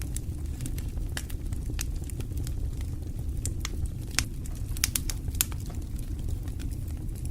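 Wood fire burning in a fireplace: a steady low rumble of the flames with irregular sharp crackles and pops, a few louder pops about four and five seconds in.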